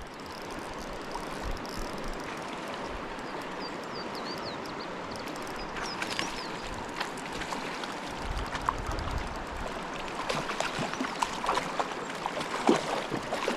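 River water flowing steadily. Faint bird chirps come in a few seconds in, and scattered sharp clicks sound through the second half.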